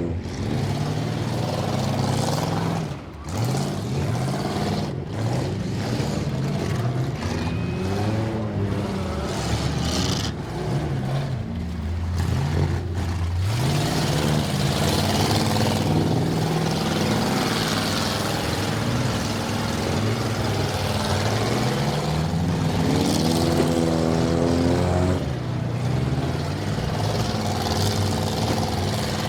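Demolition derby cars' engines running and revving, the pitch rising and falling again and again as several engines overlap.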